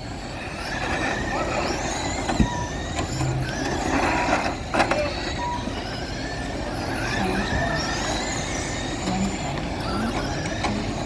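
Electric motors of a pack of RC short-course trucks racing, several high whines rising and falling in pitch as they accelerate and brake. A few short beeps and a couple of brief knocks come through as well.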